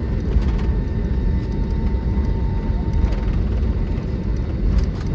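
Cabin noise inside an Airbus A320neo with CFM LEAP-1A engines, taxiing on the ground: a loud, steady low rumble with a thin steady whine that stops about three seconds in, and a few faint clicks.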